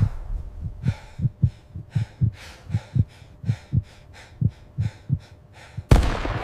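A run of low, muffled thumps in close pairs, like a heartbeat, with faint higher ticks keeping time above them. A loud, sudden hit comes near the end.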